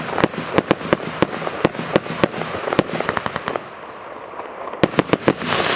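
A 100-shot, 1.1-inch fireworks cake firing: rapid sharp bangs, several a second, over a steady hiss. The bangs ease off briefly a little past the middle, then a dense, loud rush sets in at the very end.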